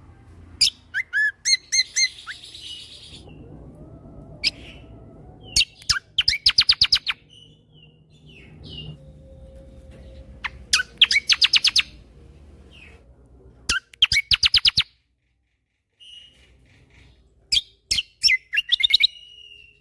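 Kecial kombo (cucak kombo) songbird singing: bursts of about a second of fast, evenly repeated sharp notes, several times over, with single whistled notes and short chirps between them. These rapid bursts are the 'tembakan' (shots) that bird keepers prize in this bird's song.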